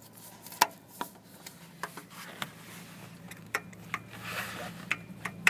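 Irregular light clicks and taps of hand tools and metal engine parts being handled, with a short rustle about four and a half seconds in, over a faint steady low hum.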